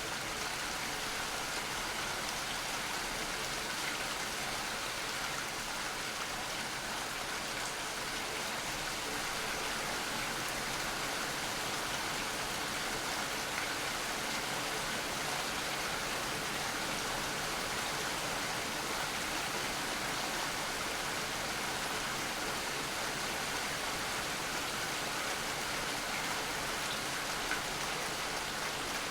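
Steady rain falling, an even, unbroken hiss of drops that holds the same level throughout.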